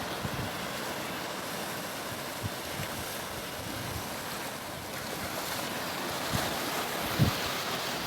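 Sea surf washing steadily, a continuous rushing noise, with wind buffeting the microphone in a few brief low thumps.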